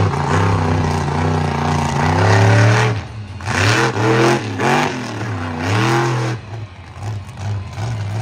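Monster truck engine running hard, then blipped through about four quick rev surges that rise and fall in pitch, before dropping to quieter short bursts near the end.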